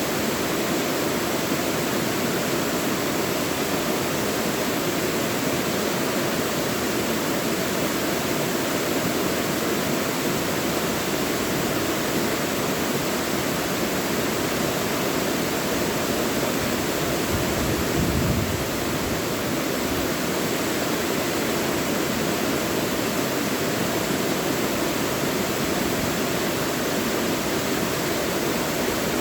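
Mountain valley stream rushing steadily over rocks, an even wash of water noise. A brief low rumble rises and fades about 18 seconds in.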